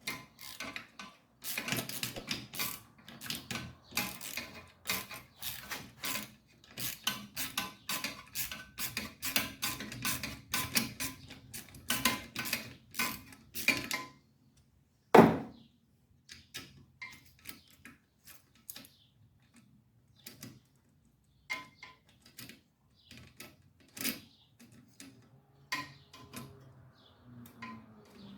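Metal clicking and clinking of a hand wrench and small steel parts while bolts and a bracket are taken off a Briggs & Stratton engine: a quick, dense run of clicks for about the first fourteen seconds, one sharp metallic knock about fifteen seconds in, then scattered clicks.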